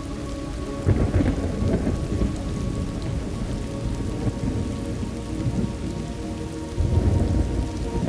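Thunderstorm ambience: steady rain falling, with low rolls of thunder swelling about a second in and again near the end.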